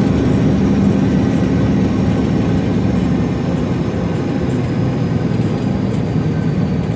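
Semi truck's diesel engine running steadily with road noise, no jake brake bursts or clear turbo whistle standing out.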